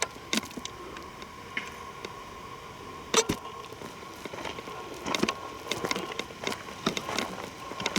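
Footsteps on a rocky trail: uneven clicks and knocks of stones underfoot, the loudest knock about three seconds in. A faint steady tone sounds underneath.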